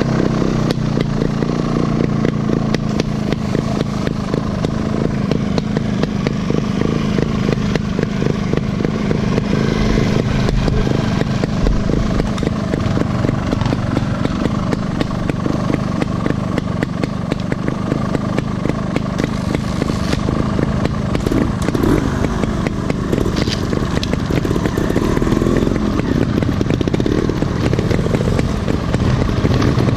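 Off-road motorcycle engine running throughout, its pitch rising and falling with the throttle in places, especially in the second half.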